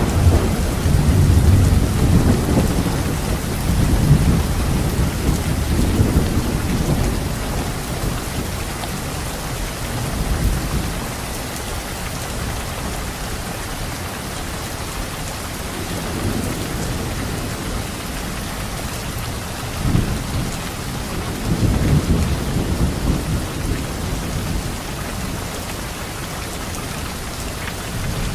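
Steady rain with thunder rumbling low underneath, strongest in the first several seconds and again about twenty seconds in.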